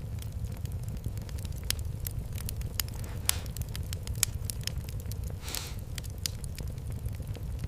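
Wood fire crackling, with irregular sharp pops over a low steady rumble. A short hiss comes a little past halfway.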